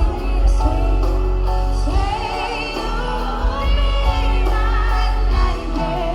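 Live pop ballad: a female lead vocal singing over the band, with wavering vibrato on held notes and a heavy, steady bass.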